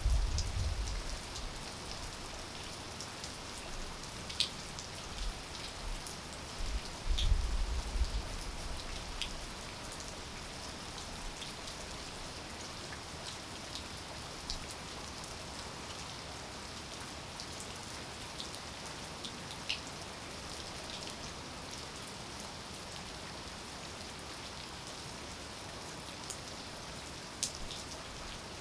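Steady rain hiss with scattered single drops ticking sharply. A low rumble at the start and again about seven seconds in.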